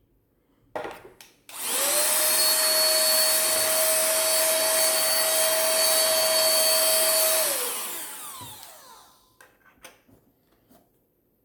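Cordless handheld car vacuum cleaner clicked on, its small high-speed motor running loud and steady with a high whine for about six seconds, then switched off and spinning down with a falling whine. A few clicks of handling come before and after.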